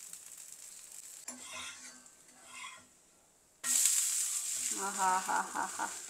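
Adai (lentil crepe) frying in oil on a hot iron tava: a loud, steady sizzle that starts abruptly a little over halfway through, after a quieter stretch.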